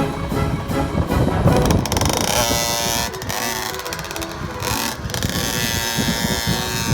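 Background music for the first couple of seconds, then a motorbike engine running, its pitch rising and falling as it revs.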